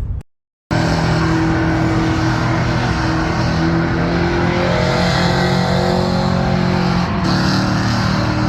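Vehicle engine held at high, steady revs, loud, starting abruptly about a second in after a short gap, with a slight change in pitch near the end.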